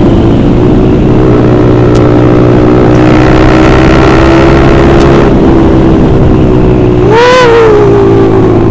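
Honda CBR150R's single-cylinder engine running at a steady cruise through an aftermarket Austin Racing racing exhaust, loud and even, its note easing slightly lower in pitch in the second half.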